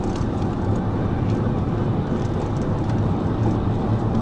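Steady engine, tyre and wind noise inside a patrol car's cabin while it drives fast, with a constant low hum.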